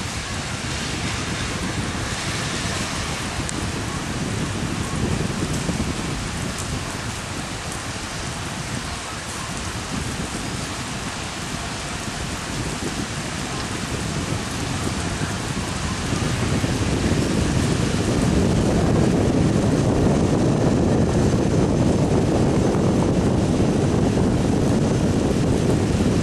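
Heavy rain falling in strong wind, a steady hiss. About two-thirds of the way through a low rush of wind swells and stays louder, buffeting the microphone.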